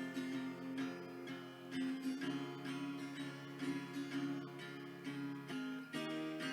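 Instrumental passage of a song: acoustic guitar strumming chords.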